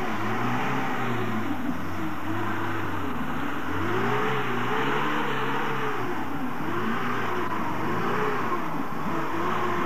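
Lada Niva's engine revving up and down about once a second as it drives through a shallow river, with water splashing around the wheels.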